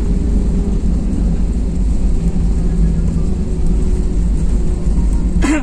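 Passenger airliner cabin noise: the steady, low drone of the engines and airflow heard from inside the plane, with a faint steady hum over it.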